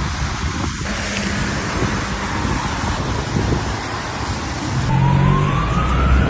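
Steady rushing noise of a heavy storm, driving rain and wind, with a low rumble underneath. About five seconds in, a single rising whine climbs for over a second.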